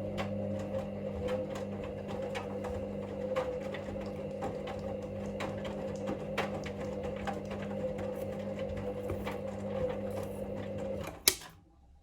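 Hoover Link washing machine's motor turning the drum in the main wash: a steady hum with irregular light knocks from the tumbling load. About eleven seconds in it stops suddenly with a sharp click.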